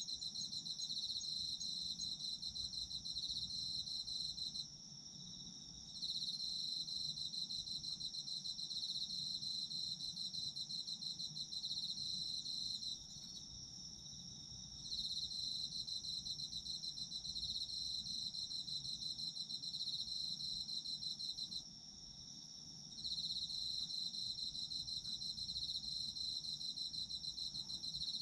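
Autumn crickets singing: one high, steady trill runs on unbroken, while a second, slightly lower, fast-pulsing trill drops out for a second or two three times, about every eight seconds.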